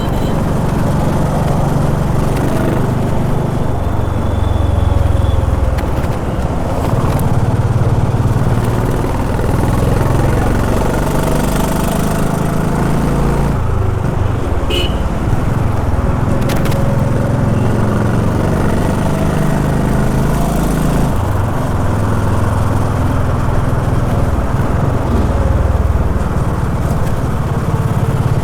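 Honda H'ness CB350's single-cylinder engine running under way in city traffic, its note rising and falling with throttle and gear changes.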